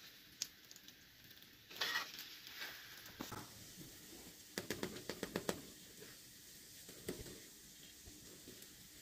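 Egg-dipped burger buns sizzling gently in a nonstick frying pan, with a metal slotted spatula scraping and clicking against the pan as they are turned, including a quick run of clicks about halfway through.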